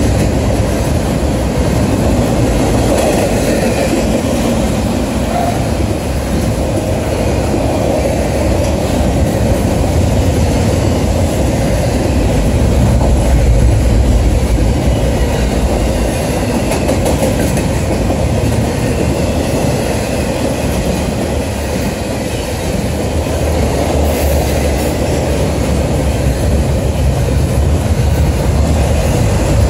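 Cars of a passing intermodal freight train rolling by steadily, with the wheels rumbling and clacking on the rails.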